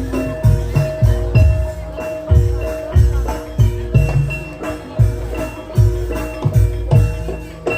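Javanese gamelan accompaniment for an ebeg horse dance. Ringing pitched metal notes carry a melody over a deep drum beat that repeats regularly, roughly once a second.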